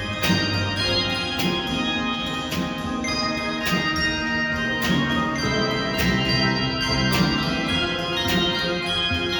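Handbell choir playing, with ringing held chords and a steady beat of struck notes about once a second.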